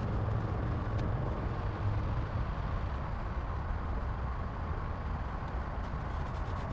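Truck engine idling with a steady low hum, fresh spark plugs and a new coil having cured its misfire.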